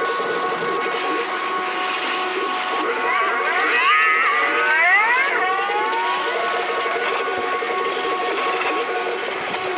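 Car wash machinery running with a steady multi-tone mechanical whine; a cluster of rising, sliding tones swells up in the middle.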